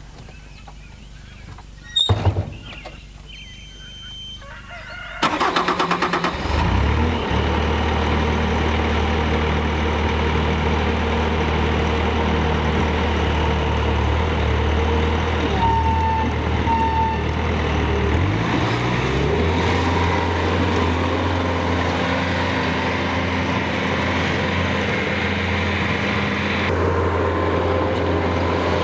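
A thump, then about five seconds in an engine is cranked briefly and catches, settling into a steady run. Two short beeps sound about midway, and a little later the engine speed rises and holds higher.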